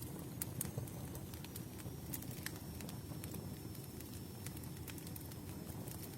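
Campfire burning: sharp, irregular crackles and pops of wood over a steady low rumble of flame, with a faint thin high whistle from about a second and a half in.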